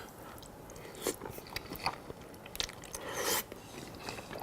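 Close-miked chewing and eating sounds of a person working through a plate of spaghetti with meat sauce: scattered small clicks and mouth noises, with a louder, longer noisy sound a little after three seconds in.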